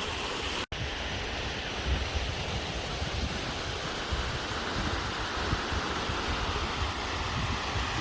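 Steady rushing of a waterfall, with wind buffeting the microphone. The sound cuts out for an instant under a second in.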